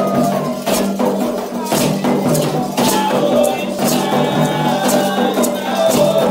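Candomblé percussion music: shakers and rattles struck in a regular beat, with a wavering melody over them.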